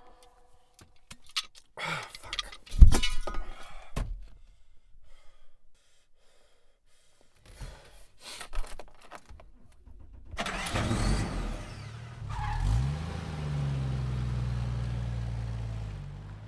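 Clicks and rattles inside a car with a heavy thump, then a car engine cranks and starts about ten seconds in, revs up briefly and settles into a steady run that drops away near the end.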